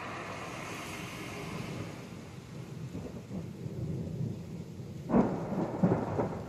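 Thunder during a rainstorm: low rumbling builds, then a sharp, loud thunderclap about five seconds in rolls on into further rumbles, over a steady hiss of rain.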